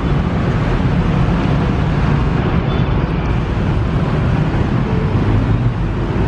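Joglosemarkerto passenger train rolling slowly along curved track: a steady low rumble with no distinct wheel clicks.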